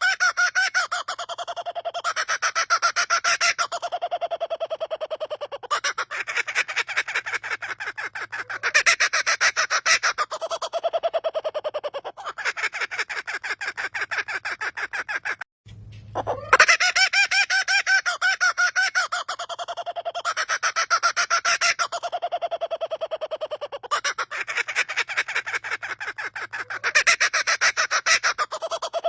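A bird calling in long runs of rapid, pulsed notes that sound like human laughter. After a brief break about halfway through, the same sequence of calls starts over.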